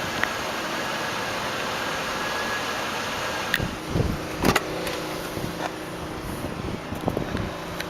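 Car engine running steadily at idle, with a few sharp clicks and knocks about halfway through.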